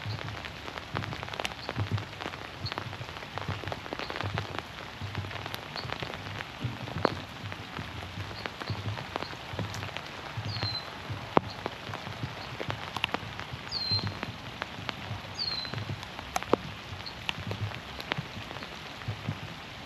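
Steady rain falling on the trees and the pond, with many sharp drips ticking close by. Through it come soft, even footfalls about one and a half a second on the boardwalk, and a few short falling bird chirps in the second half.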